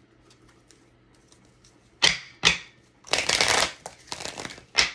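Tarot cards being handled on a table: two sharp slaps about two seconds in, then about a second of dense shuffling, lighter rustling, and one more slap near the end.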